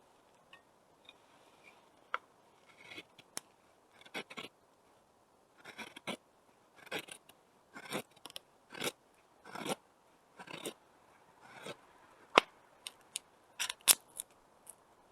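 Wood fire crackling, with short crackles about a second apart and a few sharp pops near the end.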